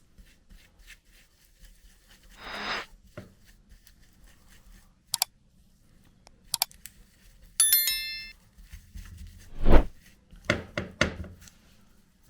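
Metal parts of an antique hand-cranked grinder being handled: a few clicks, a metal part clinking and ringing briefly about halfway through, and short rasping scrapes, the loudest with a dull thud, near the end.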